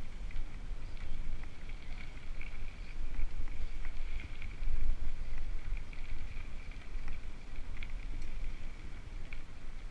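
Wind rumbling on the microphone of a moving mountain bike, gusting up and down, with light clicks and rattles from the bike and a faint steady high buzz.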